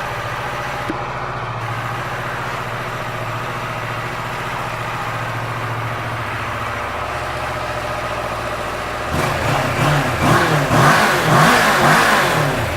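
2012 Kawasaki Ninja 650R's parallel-twin engine idling steadily. About nine seconds in it is revved in several quick blips, then settles back toward idle.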